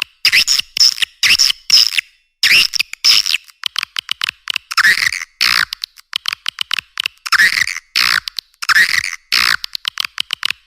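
Swiftlet lure call, a recording of swiftlets played to draw them to a nesting house: fast trains of dry clicks alternating with buzzy, twittering chirps, in bursts separated by short gaps. The sound is high-pitched, with the low end cut away entirely.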